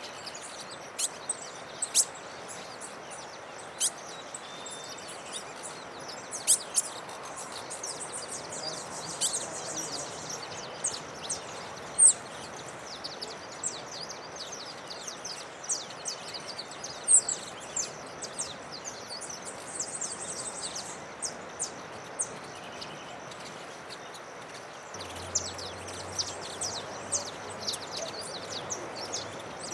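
Small forest birds calling: many short, high chirps and quick falling notes, scattered irregularly over a steady background hiss.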